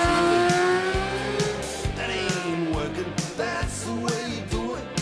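600cc racing motorcycle engine revving high, its pitch climbing as it accelerates, then a few quick upward rev glides through gear changes past the middle. Music with a steady beat plays over it.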